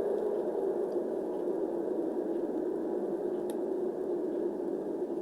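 LaMetric Time clock playing its long "wind" notification sound effect: a steady rushing wind-like hiss, mostly low and mid-pitched.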